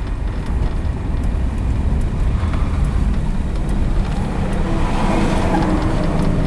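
The freshly rebuilt 318 V8 of a 1966 Dodge Coronet 440 running, with road noise, heard from inside the car during a slow U-turn. The engine tone comes up a little about four to five seconds in as the car pulls away.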